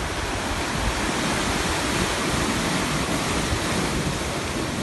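Sea waves washing onto a shore: a steady rushing surf that swells a little in the middle and eases again.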